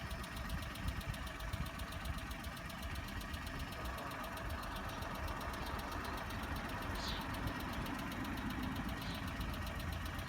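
A vehicle engine idling steadily, with a low rumble.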